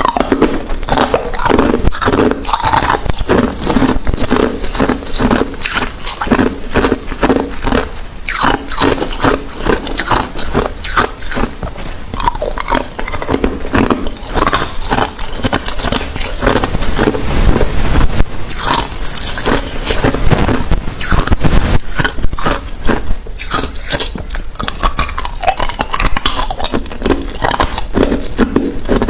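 Hard ice cubes being bitten and chewed: a continuous run of rapid, sharp crunches and cracks.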